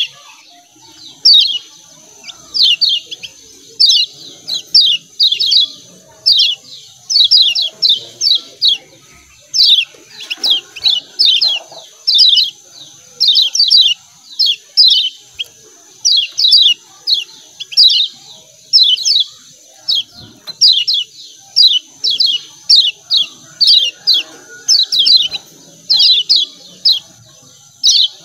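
Kecial kuning (white-eye) calling a rapid 'ciak ciak' chatter: sharp, high, downward-sweeping chirps in quick clusters of two to four, repeated about every second without pause. A steady high-pitched whine runs underneath.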